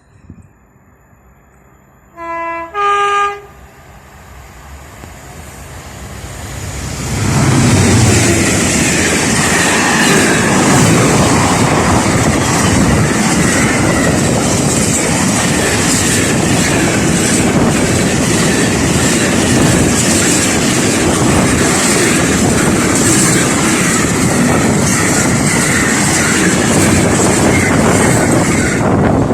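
A train sounds its two-tone horn, a short lower note then a higher one, then comes up and passes close by. Its wheels clatter over the rails loudly and steadily for about twenty seconds.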